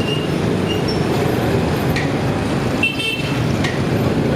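Steady road noise of a ride through busy street traffic, with a short horn toot about three seconds in.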